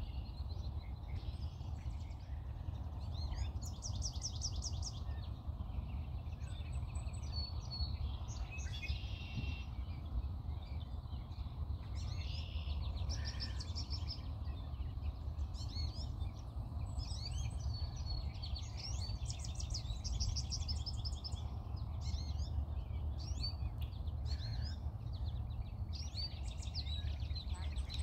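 Several songbirds singing outdoors, with rapid trills and short chirps coming again and again, over a steady low rumble.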